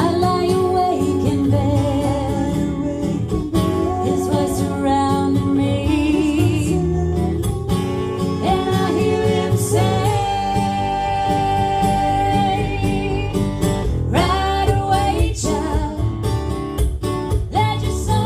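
A woman singing a slow country song live with guitar accompaniment, holding one long wavering note near the middle.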